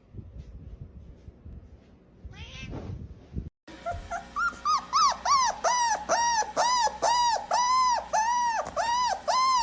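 A cat meowing over and over, about two calls a second, each call rising and falling in pitch. A single short call comes a few seconds earlier.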